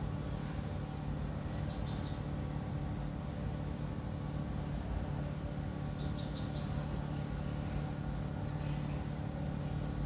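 A bird chirps twice, each time a short high trill, about four seconds apart, over a steady low hum.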